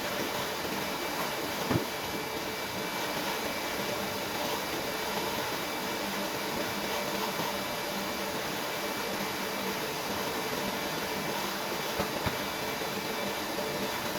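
A 500 L/h industrial reverse-osmosis water filter unit running: a steady pump hum with a faint high whine over a noise of flowing water. There is a short knock about two seconds in and two more close together near the end.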